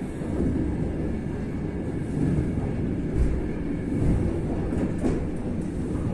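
Commuter train running, a steady low rumble of the wheels on the rails with a few faint clicks, heard from inside the carriage.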